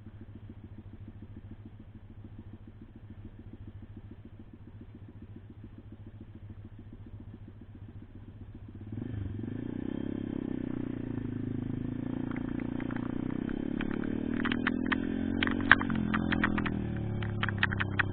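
Pit bike's single-cylinder engine ticking over quietly, then revving up about halfway through as the bike pulls away, its pitch rising. Sharp clicks and rattles come in near the end.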